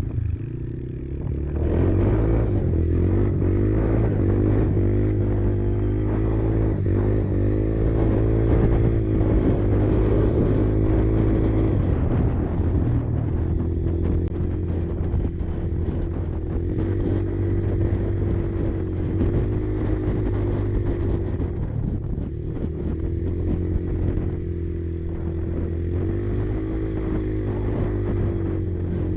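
Kymco Maxxer 300 quad's engine running under changing throttle, its pitch rising and falling over and over. The level picks up about two seconds in.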